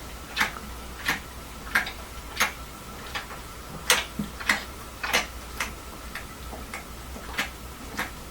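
A dog licking loudly, its tongue making sharp wet clicks about one and a half times a second at an uneven pace.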